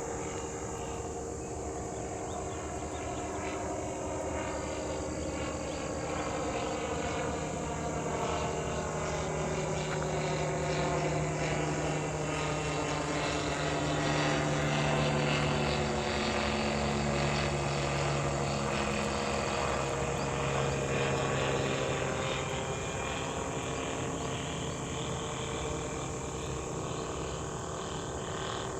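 An airplane flying past overhead, its engine sound swelling to its loudest about halfway through and then fading, with the engine tones dropping in pitch as it goes by.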